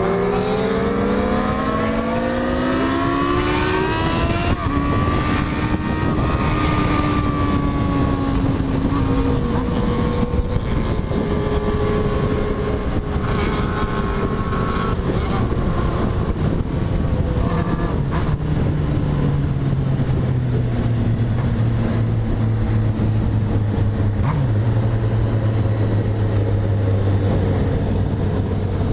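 Motorcycle engine revving up through the gears for the first few seconds, then easing off, with a few shorter rises and falls, before settling into a steady low note, over heavy wind and road noise.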